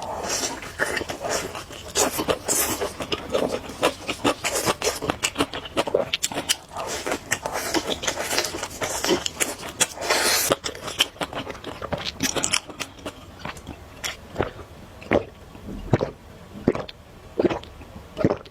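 Close-miked biting and chewing of crunchy fried food: dense crackling crunches for about twelve seconds, then slower, sparser chews near the end.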